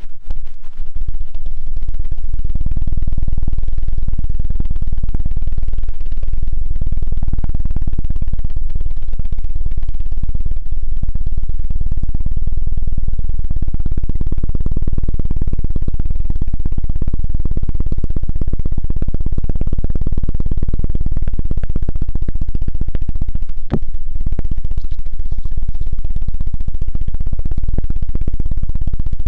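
ASMR 'helicopter' ear-cleaning trigger: rapid, continuous rubbing on a binaural microphone's ear, giving a loud, low, fast-pulsing rumble. It breaks off briefly about 24 seconds in.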